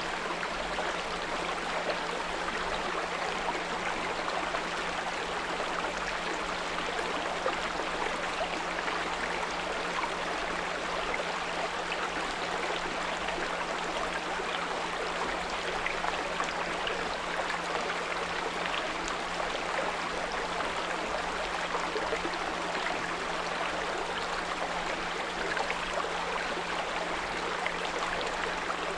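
Small brook babbling steadily over stones, with a continuous low 174 Hz pure tone mixed in beneath the water.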